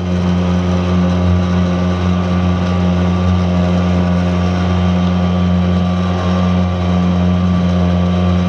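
Tohatsu M3.5B2, a small single-cylinder two-stroke outboard, running at a steady speed as it pushes a heavy cabin boat into the wind.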